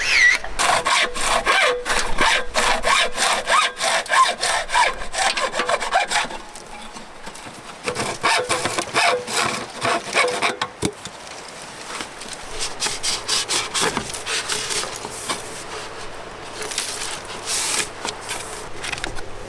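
Hand saw cutting with quick back-and-forth strokes, in three spells with short pauses between.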